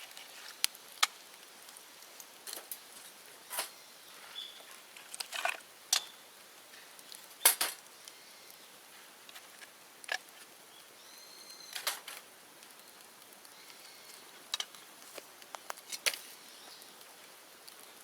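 Open bonfire of cut bamboo and brush crackling, with irregular sharp pops and snaps over a low hiss; the loudest pop comes about halfway through.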